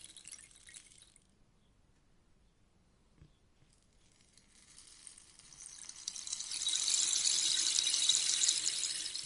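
Rainstick being tipped: a pattering cascade of pellets trickles away in the first second, a near-silent pause follows with a faint knock, and then the stick is turned again and a new cascade swells up and runs loud through the rest.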